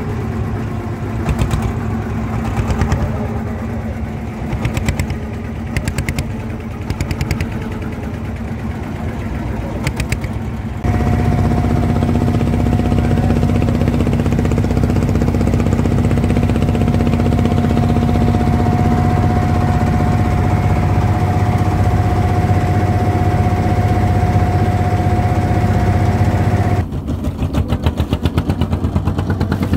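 Boat engine running under way, with a rapid chugging beat. About eleven seconds in it settles into a louder, steady drone, then goes back to the quicker chugging near the end.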